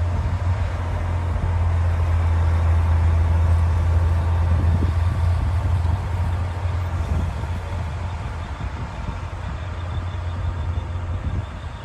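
Diesel engine of a D60 crawler bulldozer running with a steady deep hum, loud for the first several seconds, then easing down somewhat.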